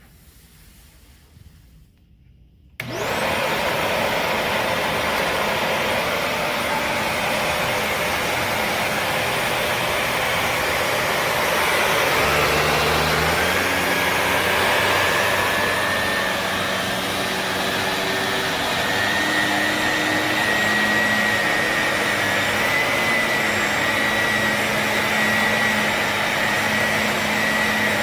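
Shark Navigator NV360 upright vacuum switched on about three seconds in. Its motor spins up with a quickly rising whine, then runs steadily and loudly, with the pitch of the whine stepping up a few times later on.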